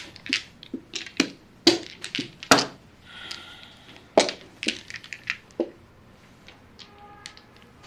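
Mahjong tiles clacking against each other and knocking on a table in irregular sharp clicks, thicker in the first half.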